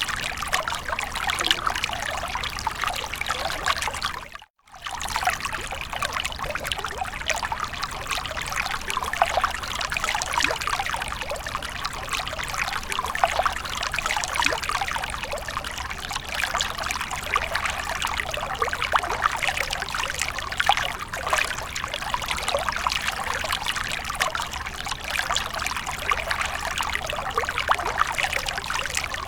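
Water from a fountain trickling and splashing steadily. It drops out for an instant about four and a half seconds in.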